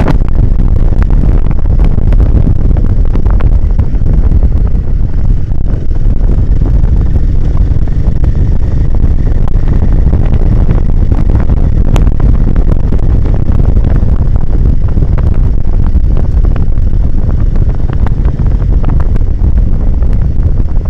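Heavy wind buffeting the microphone while riding a Royal Enfield Himalayan 450 off-road, its engine running underneath the wind. Scattered sharp clicks and knocks run through it.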